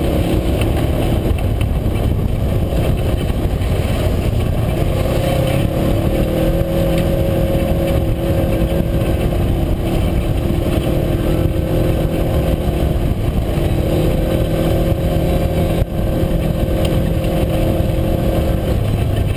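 UTV engine running steadily under way, its drone shifting slightly in pitch, over a heavy low rumble.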